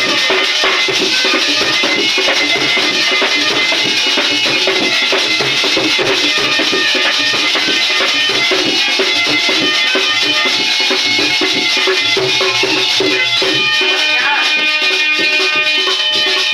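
Instrumental break in a Hindi devotional bhajan: dholak drumming with shaken jingling hand percussion in a fast, steady rhythm. Held melodic tones come through more clearly about three-quarters of the way through.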